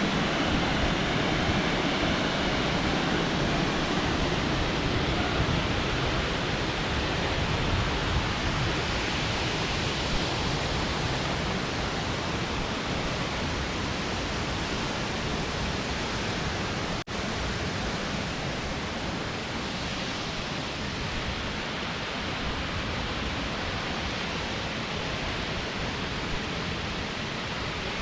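Waterfall rushing, a dense, even hiss that eases slightly over time, broken by a momentary dropout about two-thirds of the way through.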